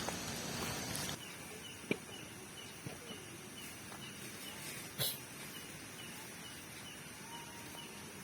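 A small night creature chirping steadily, about two short high chirps a second, over a faint outdoor hush. Two sharp knocks come about two and five seconds in.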